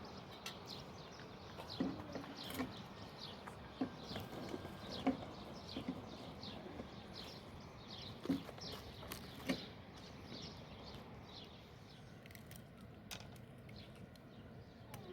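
Small bird chirping over and over, short high falling chirps about twice a second that thin out after about ten seconds, with a few light knocks between them.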